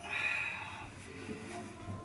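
Sleeper train pulling away slowly, heard from inside the compartment: a low, uneven running rumble, with a brief high-pitched squeal at the start.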